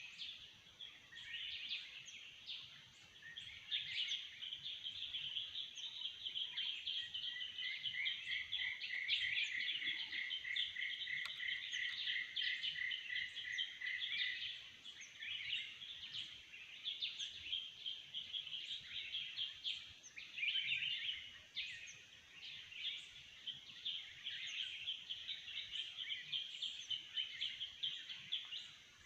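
Several kinds of forest birds calling and chirping over one another, with a rapid, even trill running through the middle stretch. A steady high thin drone runs underneath.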